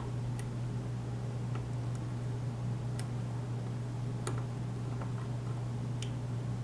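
Light, sparse clicks of a lock pick working the pins of a pin-tumbler lock, about one a second, over a steady low hum.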